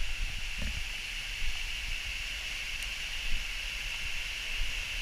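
Steady outdoor jungle ambience: a constant high-pitched drone with a low rumble underneath.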